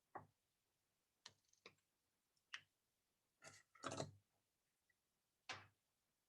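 Near silence broken by about seven faint, separate clicks and taps, irregularly spaced.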